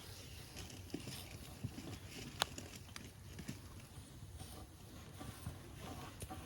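Wood campfire crackling with scattered irregular pops and small cracks, one sharper crack about two and a half seconds in.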